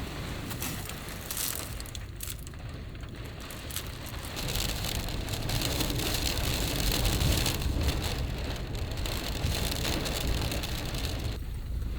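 Heavy rain pounding on the body of a Subaru Sambar kei van, heard from inside, a dense crackling patter over a low rumble. It grows heavier about four seconds in and eases shortly before the end.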